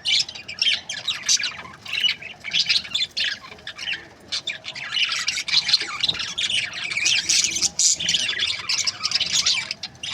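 A flock of budgerigars chirping and chattering, many short high calls overlapping without a break.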